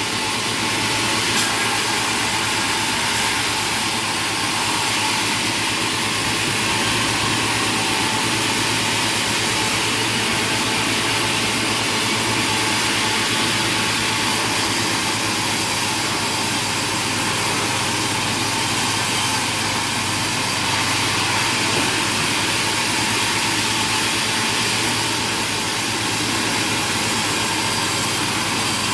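Sawmill machinery running steadily: a constant low drone under an even hiss, with no clear break or change.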